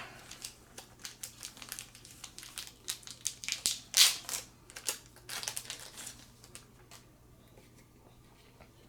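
Crinkling plastic booster packaging and small sharp rustles and clicks as the pack's contents are handled, dying away about seven seconds in.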